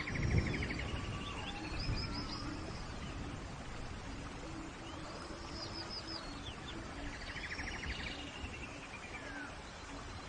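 Forest birdsong: a songbird sings a phrase of a fast trill with high down-sweeping notes twice, over a steady hiss of rain. A brief low rumble comes just after the start.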